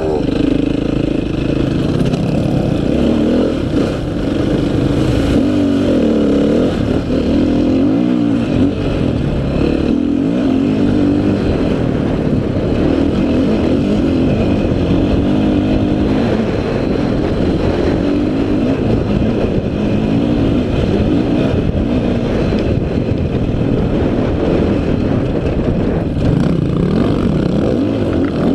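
Dirt bike engine running hard, heard close up from the rider's own bike, its pitch rising and falling as the throttle opens and closes.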